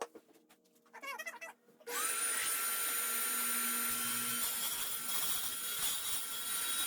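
An electric motor switches on about two seconds in, its whine rising quickly to a steady high pitch, then runs steadily and loudly with a rushing noise.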